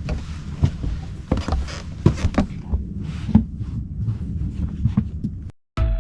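Irregular soft thumps and scuffs over a steady low rumble. The sound cuts off abruptly near the end, and music begins.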